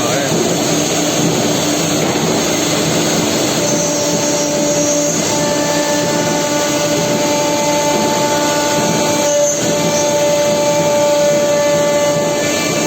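Four-spindle CNC nesting router running, its spindle cutting wood panel board: a steady whine over a loud rushing noise, with a higher held tone joining about four seconds in.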